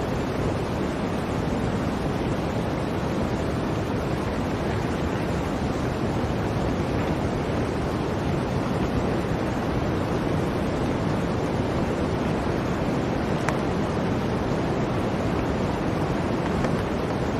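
Steady blizzard wind: an even rushing noise with no gusts, plus one faint click about two-thirds of the way through.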